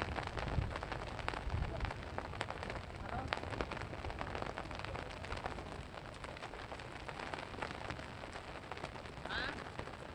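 Floodwater rushing and splashing: a steady, crackly hiss of moving water. A brief high chirp is heard near the end.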